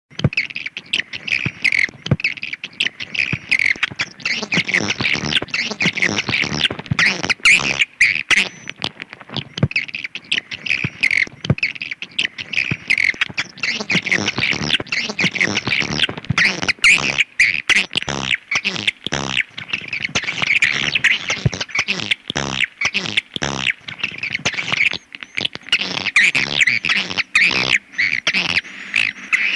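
Swiftlet calling sound: a dense, unbroken chatter of high chirps and rapid clicking twitters from many swiftlets, of the kind played as a lure call to draw swiftlets into a nesting house.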